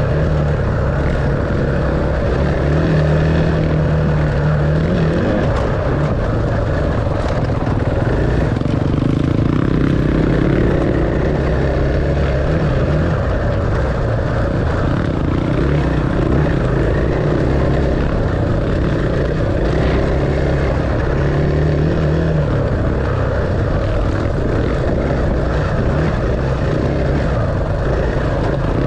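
Enduro dirt bike engine running steadily under way, its note stepping up and down in pitch as the throttle and gears change.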